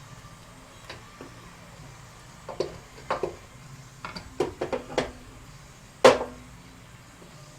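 Metal clunks and knocks of a Cub Cadet shifter tower being jiggled down onto the transmission to seat its lever in the shifter forks: a couple of knocks, then a quick run of several, then one loud clunk with a short ring about six seconds in.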